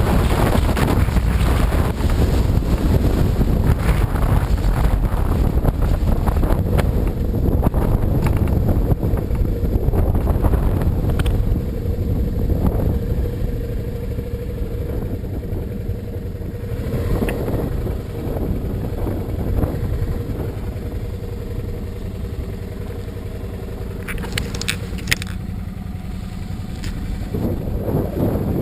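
Motorcycle engine running at a steady pitch, mixed with heavy wind noise on the microphone; the sound gets somewhat quieter after about twelve seconds.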